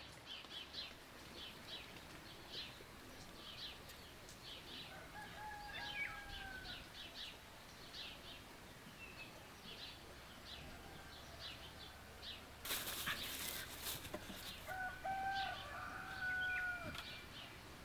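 Small birds chirping rapidly throughout, with a rooster crowing twice, each crow a long held call that drops away at the end. Between the two crows comes a loud burst of about a second that fits wings flapping.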